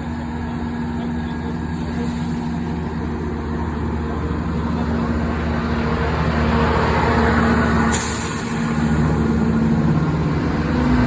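Chiltern Railways diesel train's engines running steadily, growing louder over several seconds, with a short sharp hiss of air about eight seconds in.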